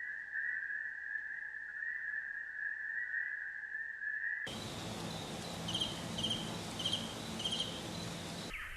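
Small animal calls: a steady, high, slightly pulsing trill, then after an abrupt cut a noisier outdoor recording with four short high chirps about half a second apart.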